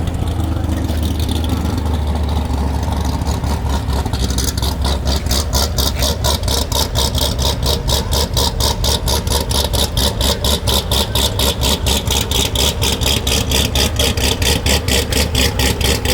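Corvette V8 engine idling, with a strong low drone; from about four seconds in it takes on an even pulsing of about five beats a second.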